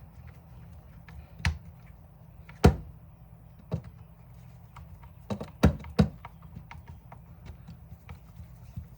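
Scattered sharp knocks and taps of hard plastic parts and hand tools being handled during reassembly of a cordless drill: one loud knock a little under three seconds in and three in quick succession around five and a half to six seconds.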